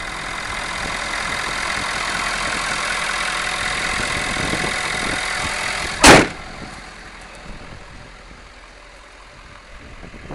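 Ford F-350's 6.7-litre diesel engine idling steadily, cut about six seconds in by one loud slam, after which the engine sounds much quieter.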